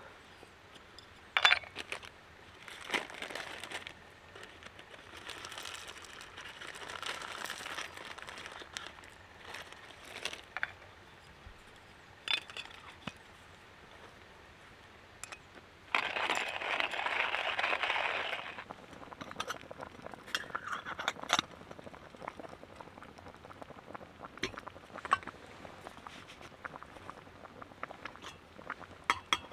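Camp gear being handled: scattered clinks and knocks with bits of rustling, and a louder rustle lasting a couple of seconds a little past the middle.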